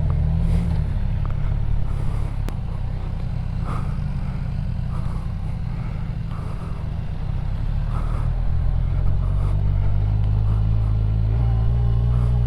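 Motorcycle engine running at low speed, growing a little louder about two-thirds of the way through.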